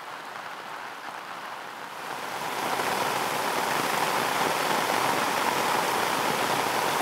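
Simulated torrential rain, 300 mm per hour from a rainfall facility's overhead nozzles, pounding the pavement. A steady hiss that grows louder about two seconds in, then holds.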